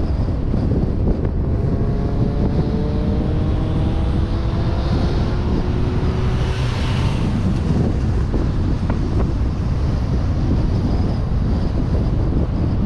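Wind and road rush on a suction-cup-mounted GoPro on a moving car. A vehicle engine note climbs steadily in pitch between about two and six seconds in.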